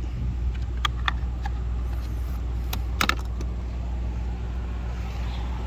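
A few sharp plastic clicks from the BMW i8's charge port door and socket cover being handled, the loudest pair about three seconds in, over a steady low hum.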